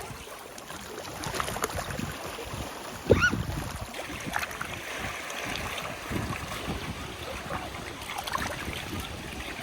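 Lake water lapping and splashing in irregular small waves, with a short high-pitched call about three seconds in.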